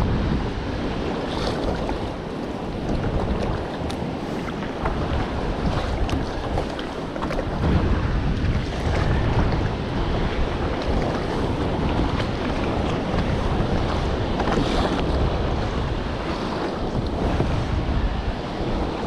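Wind buffeting the microphone in a steady low rumble, over sea water washing around a kayak.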